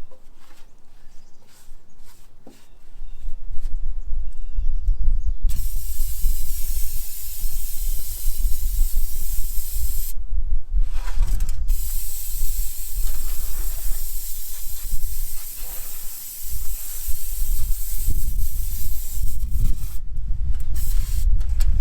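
Water spraying hard from a pressure washer wand, rinsing grime off machinery, over a low steady rumble. The spray starts about five seconds in, stops for about a second and a half around the ten-second mark, and cuts in and out near the end.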